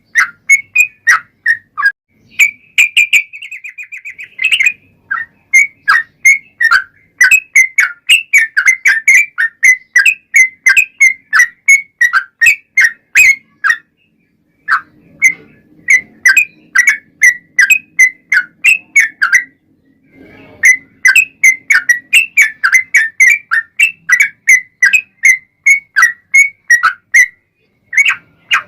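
Yellow-vented bulbul (trucukan) singing a long, rapid run of short, sharp whistled notes, several a second. A quick trill comes a few seconds in, and there are two brief pauses along the way. This is lure song played to draw other trucukan into answering.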